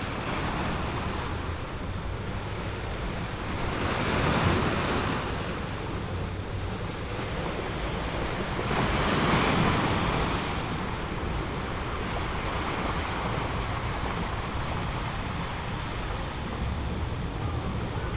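Ocean surf: a steady wash of waves, with two bigger waves swelling and breaking about four and nine seconds in.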